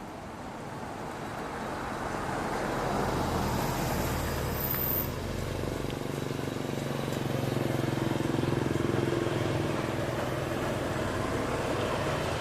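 A motor vehicle's engine running, growing louder over the first few seconds and then holding at a steady level.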